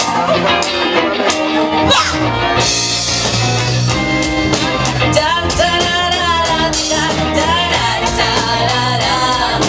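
A live rock band playing an original song: electric guitar, bass and drum kit with cymbal strokes, and a lead voice singing over them, most strongly in the second half.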